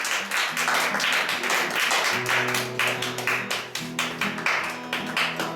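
Acoustic guitar strummed in a steady rhythm after the last sung line, the chord changing about two seconds in and again near four seconds.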